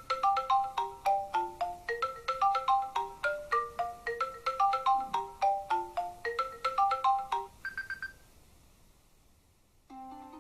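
An iOS 7 iPhone ringtone playing: a quick melody of short notes, several a second, that stops about eight seconds in. After a brief pause, the next ringtone starts just before the end.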